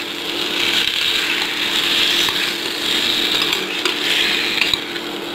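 Tomato pieces with salt and sugar sizzling in hot oil in a steel pot as they are stirred with a metal spoon, the sizzle swelling and easing with the strokes, with a few light clicks of the spoon against the pot. Under it runs the steady hum of a portable induction cooktop.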